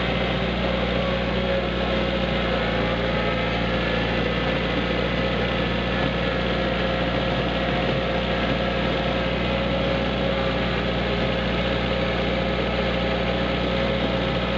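Kubota tractor's engine running steadily at a constant speed, heard close up.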